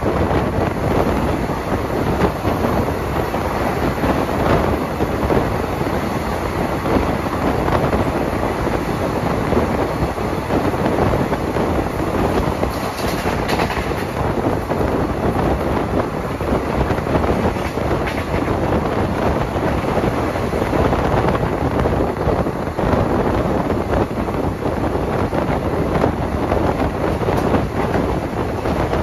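Steady running noise of a moving passenger express train heard from on board: wheels on rail and the coach rumbling at speed. A brief higher hiss rises over it about 13 seconds in.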